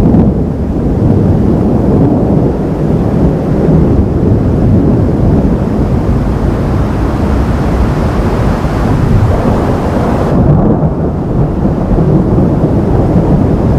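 Thunder rolling in a long, loud, continuous low rumble.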